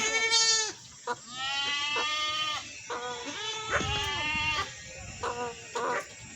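Goats bleating: a string of wavering calls, one long one held for about a second, the others shorter.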